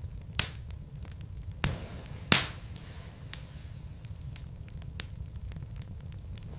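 Wood fire crackling, with small ticks and sharp pops from the burning logs over a steady low rumble. Two pops come within the first two seconds, and the loudest comes a little over two seconds in.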